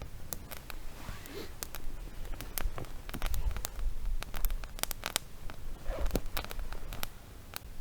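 Wood fire crackling, with irregular sharp pops and snaps scattered through, over a low rumble.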